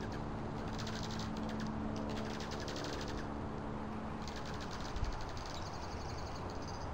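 Wild birds calling in fast, high-pitched rattling trills, three bursts. A steady low hum sits underneath and fades out about halfway through.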